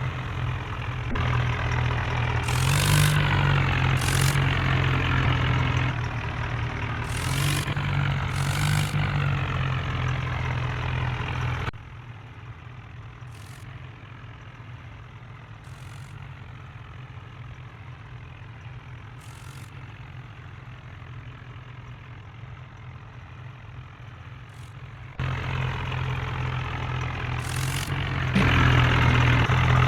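Heavy diesel engine running, revving up briefly a couple of times. The level drops abruptly to a quieter engine sound through the middle stretch, then jumps back up near the end.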